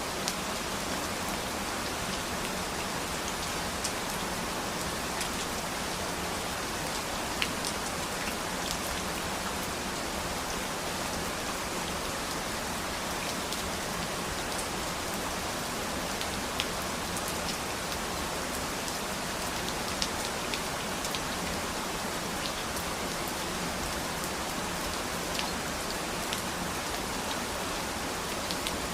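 Steady rain falling on a surface, an even hiss with scattered individual drops ticking sharply through it.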